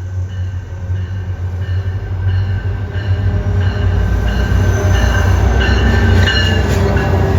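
Amtrak passenger train approaching and passing, getting steadily louder: a low locomotive rumble and rolling wheels, with thin high squealing tones from the wheels over it.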